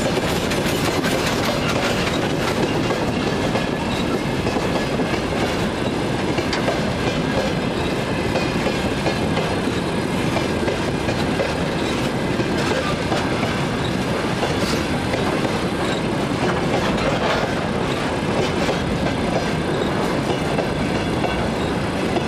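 Freight train of tank wagons rolling by, a steady rumble of wheels on rails with the clickety-clack of the bogies over rail joints.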